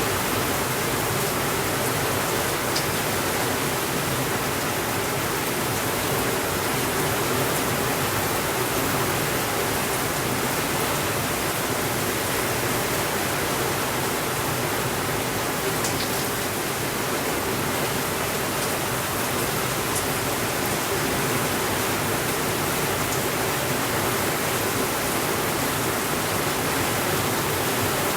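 Steady rainfall: an even, unbroken hiss with no let-up, and a few faint sharp ticks now and then.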